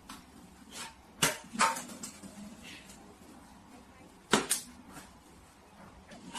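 A few sharp knocks or clatters in a room: two close together a little over a second in, and two more a little after four seconds in, over a faint low hum.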